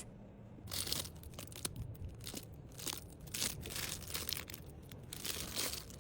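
Plastic packaging rustling and crinkling in irregular bursts as small packed items are handled.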